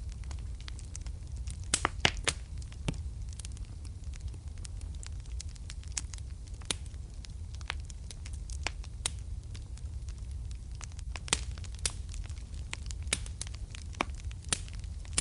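Wood fire crackling in a fireplace: irregular sharp pops and snaps over a steady low rumble of the burning, with a few louder pops about two seconds in and again later on.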